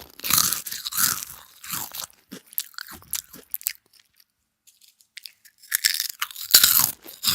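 Close-miked crunching and chewing of food in a mukbang. There are crisp bites at first, a short pause in the middle, and a louder burst of crunching near the end.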